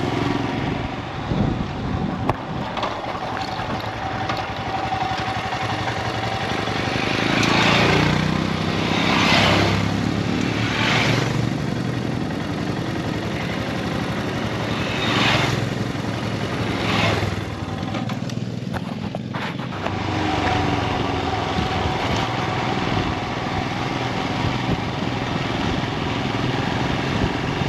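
Motorcycle under way, its engine running steadily under rushing wind and road noise. It swells louder several times in the first half and drops away briefly about two-thirds of the way through.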